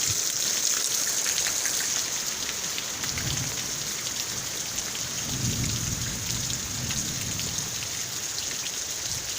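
Heavy rain falling steadily, with thunder rumbling low: a short roll about three seconds in and a longer one from about five to seven and a half seconds.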